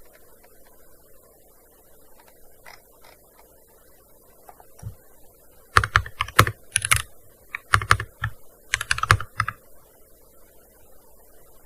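Keystrokes on a gaming keyboard: a few faint taps, then three quick bursts of typing about halfway through.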